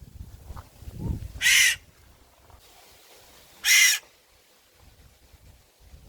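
White-throated magpie-jay giving two loud, harsh, rasping calls about two seconds apart.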